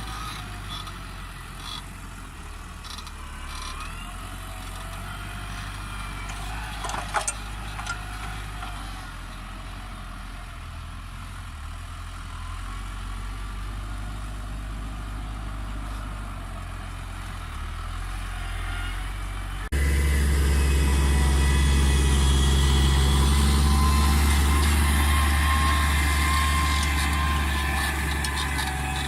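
New Holland T6070 tractor's diesel engine running steadily under work. About two-thirds of the way through, the sound suddenly becomes louder and fuller in the low end.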